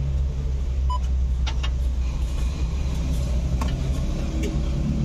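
Honda CR-Z's engine idling steadily, heard from inside the cabin as a constant low hum. About a second in there is a short electronic beep, and later a few light clicks.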